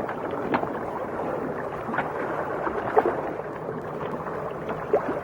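Water sound: a steady wash with scattered small clicks and pops, typical of underwater ambience.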